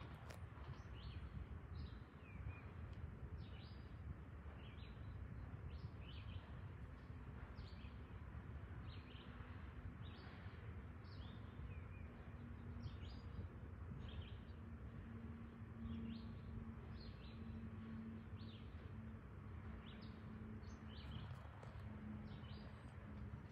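Birds chirping over and over, short high calls about twice a second, above a steady low rumble of freight cars rolling slowly past. A faint steady hum joins in the second half.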